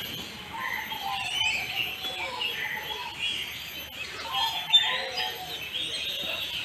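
Many birds chirping and calling at once, overlapping short chirps, with a louder sharp call just before five seconds in.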